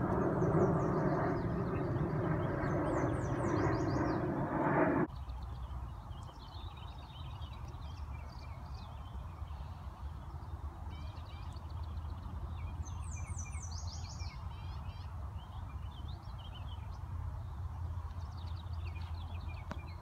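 Small birds chirping and trilling in high, short phrases, with a bright run of quick high notes about thirteen seconds in, over a low steady rumble. For the first five seconds a louder steady engine drone covers everything, then cuts off abruptly.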